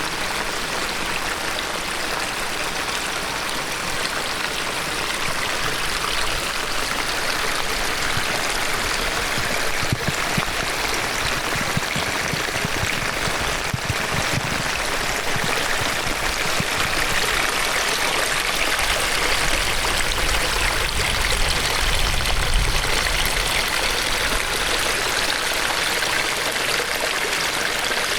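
Rain-swollen stream rushing steadily, with rain falling, and stretches of low rumble in the middle and later on.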